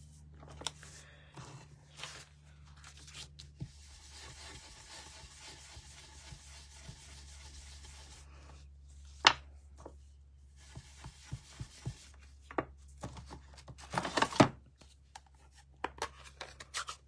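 Cardstock and crafting tools handled on a tabletop: about four seconds of steady rubbing, then scattered taps and clicks, with one sharp click past the middle and a louder cluster a few seconds later.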